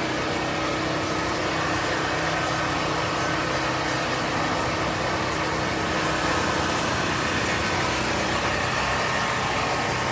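Steady, unchanging drone of an idling engine, with a few held tones over a noisy hiss.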